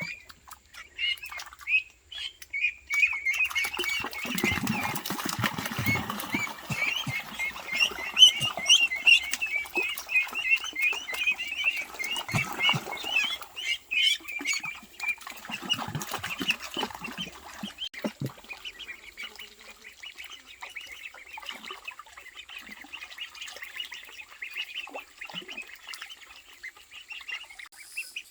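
Poultry calling: ducks quacking amid a dense chorus of short, high peeps from young birds. It is busiest in the first half and thins out after about fifteen seconds.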